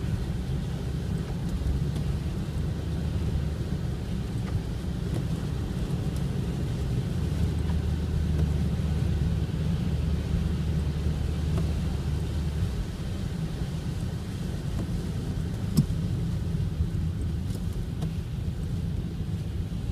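Strong wind, about 17 m/s, buffeting the microphone: a steady low rumble with one short click about 16 seconds in.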